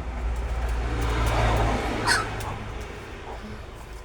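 A harsh, raspy animal sound that swells and then fades over about two seconds, with a short sharp call about two seconds in.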